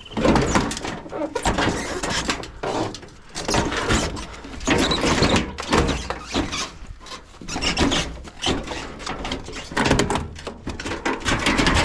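A washing machine's sheet-metal and plastic parts being pried and pulled loose, with repeated irregular scraping, rattling and clunking.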